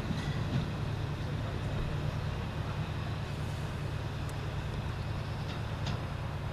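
Train engine running steadily, a low even rumble with a few faint ticks over it.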